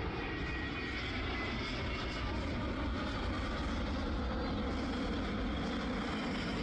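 Jet airliner engines heard at a steady, even level, a broad hiss with a faint whine.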